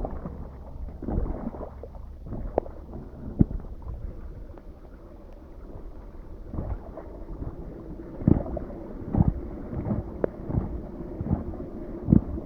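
Rain runoff water flowing along a road toward a roadside drainage gully, with wind buffeting the microphone. Irregular low thumps run through it, louder in the second half.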